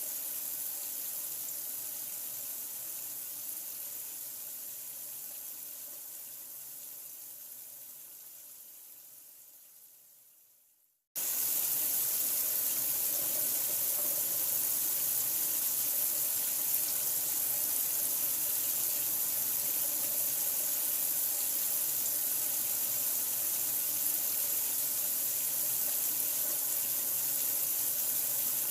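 Steady rush of running water, a hiss with most of its energy high up. It fades out gradually over the first eleven seconds or so to silence, then cuts back in abruptly at full level and runs on evenly: a looped water-sound recording restarting.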